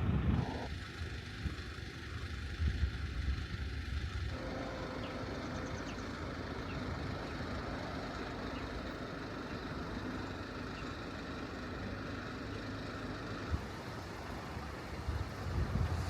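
Heavy rain and gusting wind on a kei van's body, heard from inside as a steady rushing noise with a low rumble.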